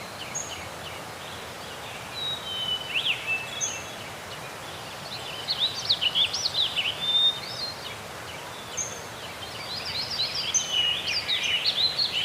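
Several birds chirping and singing in short, quick phrases over a steady background hiss, busiest about halfway through and again near the end.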